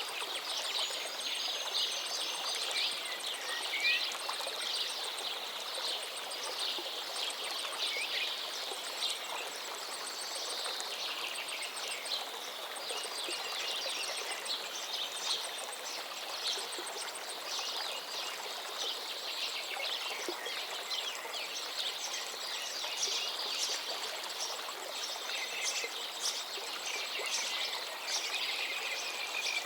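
A river flowing steadily under many birds chirping and singing, with a few drawn-out whistles. A fast, high ticking runs along faintly above them.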